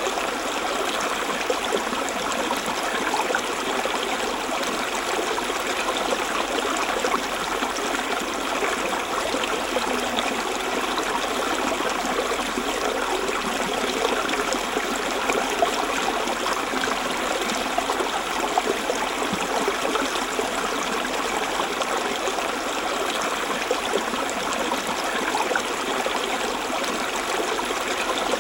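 A forest stream running steadily over stones, a constant babble of water with small splashes and trickles.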